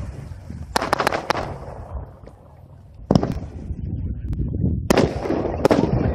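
Consumer aerial fireworks going off in a series of bangs. A quick run of sharp cracks comes about a second in, a single loud bang a little after three seconds, and more reports near the end, with a low rumble between them.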